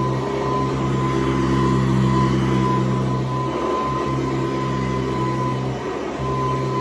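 Hoover U4353 Convertible upright vacuum cleaner running steadily on its single speed, its 4.8-amp motor and 6-blade fan giving a constant hum with a whine; the low hum wavers briefly twice.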